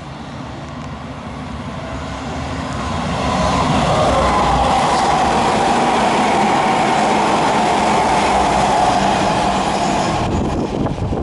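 Hanshin Railway electric train running through the station without stopping. The rumble and wheel-on-rail noise build over the first few seconds as it approaches, then hold as a loud steady rush while the cars go by close, cutting off suddenly about ten seconds in.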